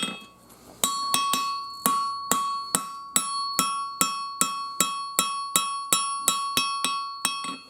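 Hand hammer striking hot 5160 steel on an anvil, about two to three blows a second, each blow followed by a bright ring. It starts about a second in and is the hammering of a swale into a throwing knife blade.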